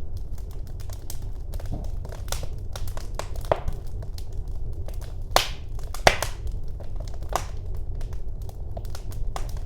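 Fire burning in a fireplace, crackling with irregular sharp pops over a steady low rumble. The two loudest pops come a little past the middle.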